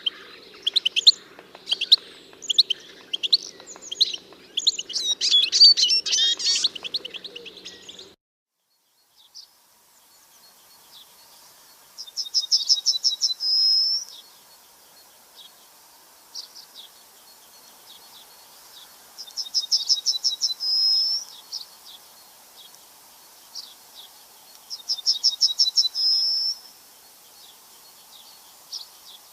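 Songbirds chirping busily for the first eight seconds, then, after a break, a single bird singing a short, fast trill that ends on a higher note, repeated three times about six seconds apart.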